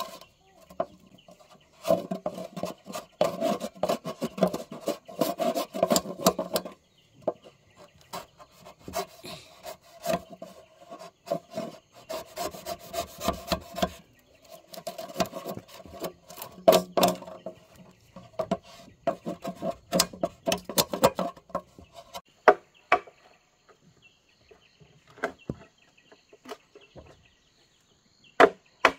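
A hand tool working wood in rapid rasping back-and-forth strokes, in three long bursts, followed by a few separate knocks near the end.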